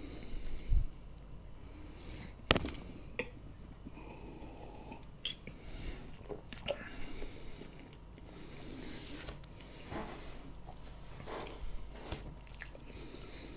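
Close-miked chewing of soft gingerbread, with scattered clicks and knocks, the loudest about two and a half seconds in. Some of the clicks come from fingers handling the clip-on lavalier microphone.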